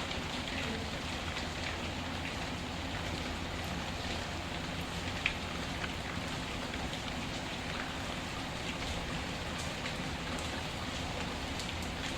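Steady rain with a wood fire crackling faintly under it: scattered small pops, one sharper pop about five seconds in.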